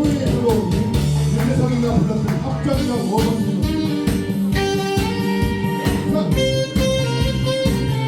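Saxophone playing a melody over a band accompaniment of bass, guitar and drums, holding long notes in the second half.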